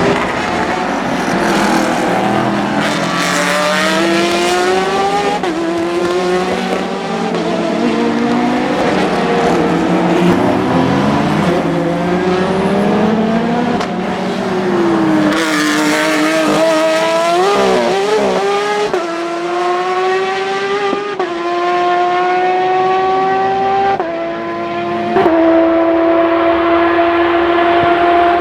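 Porsche 911 race cars' flat-six engines at racing revs, the pitch climbing and dropping back sharply at each upshift several times over. There is a brief dip and wobble in pitch partway through, and the engine holds at high revs near the end.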